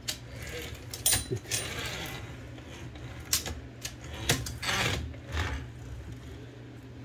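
Metal parts of an Olivetti Linea 98 typewriter's carriage mechanism being handled and adjusted: a few sharp clicks and knocks with short rattling scrapes between them.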